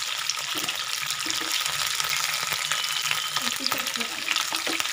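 Chicken pieces sizzling steadily in hot oil in a nonstick frying pan, with fine crackles throughout, as a wooden spatula stirs and turns them. The chicken is cooked through and being lifted out of the oil.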